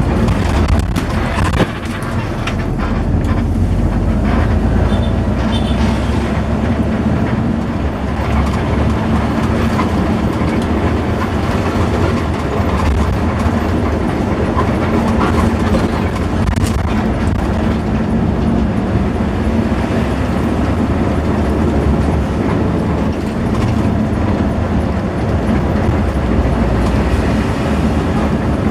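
Steady engine and road rumble of a moving bus, heard from inside the passenger cabin, with a constant low hum.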